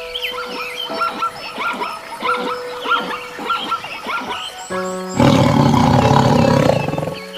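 A lion roars once, a loud rough call of about two seconds starting around five seconds in. Before it, birds chirp over soft background music with held notes.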